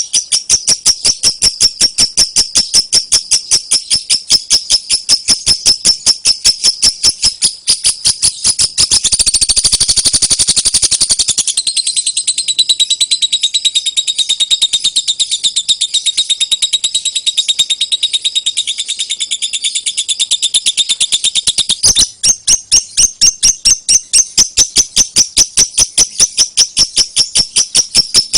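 Lovebird in its long 'ngekek' song: an unbroken, rapid string of shrill repeated notes. The notes crowd together about nine seconds in, drop lower for about ten seconds, and return to the higher pattern about 22 seconds in.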